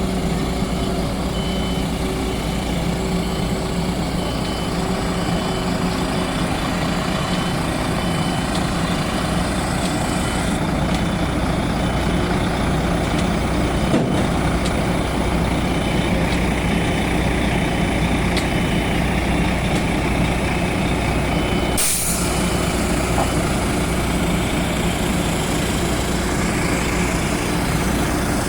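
Heavy lorry engine running steadily while a reversing alarm beeps at an even pace. About 22 seconds in the beeping stops, and there is a short, sharp air-brake hiss.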